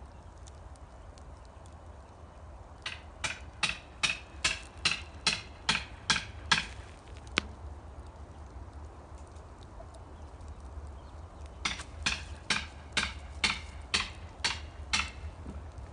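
Two runs of quick, evenly spaced sharp calls, about two and a half a second, each run lasting three to four seconds: a bird calling, over a steady low rumble.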